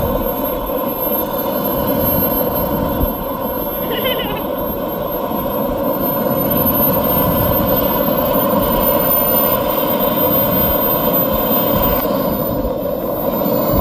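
Xicoy X45 RC model turbojet running, a steady rush of exhaust with a high, thin turbine whine that slowly creeps up in pitch as the engine speeds up.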